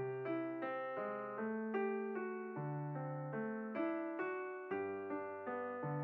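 Background piano music: a steady stream of gently decaying notes over held bass notes.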